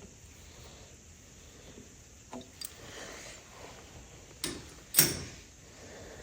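A couple of faint clicks, then two sharp knocks about half a second apart, the second much the louder, like a door or a hard object being knocked or set down.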